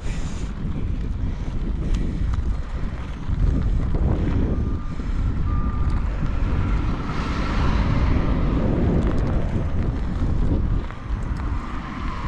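Wind buffeting the microphone in uneven, rumbling gusts.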